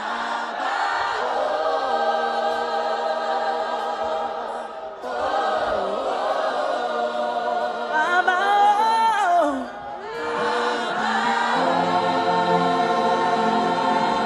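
Gospel choir singing held, close-harmony chords. Near the middle a high voice runs up and back down, and lower voices join near the end.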